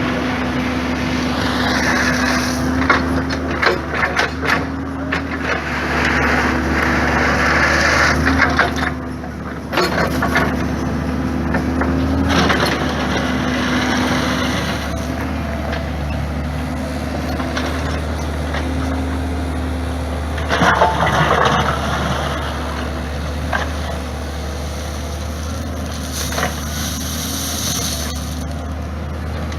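Heavy diesel plant engine running steadily under load, with bouts of crunching and rattling as scalpings are tipped and spread, loudest in the first third and again about two-thirds of the way through.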